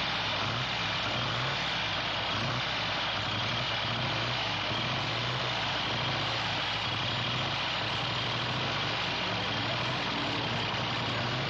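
Motorcycle engines running steadily at idle, with no revving or passes.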